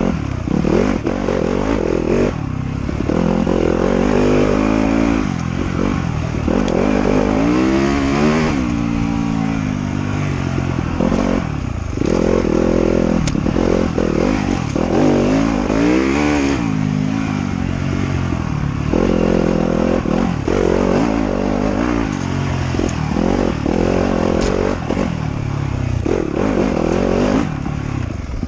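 Off-road motorcycle engine under hard riding, its pitch rising and falling again and again as the throttle is opened and shut and the gears change.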